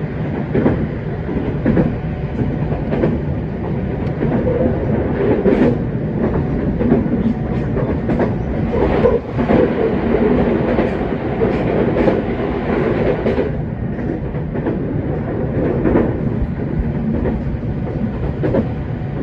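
JR West 227 series electric train running along the line, heard from inside the carriage: a steady rumble with wheel clicks over the rail joints.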